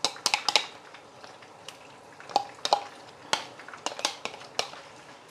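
Kitchen utensils clinking and tapping irregularly, a quick cluster at the start and another around four seconds in, a few of the strikes ringing briefly.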